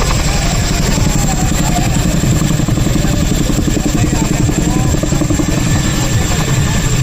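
Boeing CH-47 Chinook tandem-rotor helicopter running, with a steady, rapid rotor chop and a thin high whine above it.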